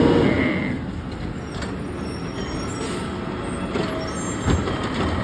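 Garbage truck running close by, with a few sharp knocks.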